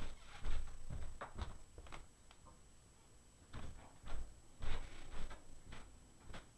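Someone rummaging for a flashlight: a run of knocks and clatters of objects being handled and moved, in two clusters, the first right at the start and the second from about three and a half seconds in.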